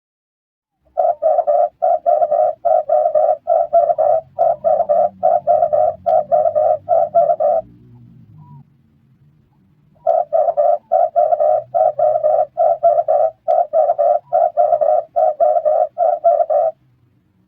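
Red collared dove cooing: two runs of rapid, evenly repeated cooing notes, about two and a half notes a second. Each run lasts about six and a half seconds, with a pause of about two seconds between them.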